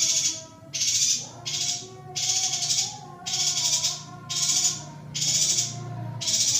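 Female yuhina calls on a masteran recording: short, high, buzzy chattering notes repeating evenly, about one every three-quarters of a second, over a fainter, lower wavering tone.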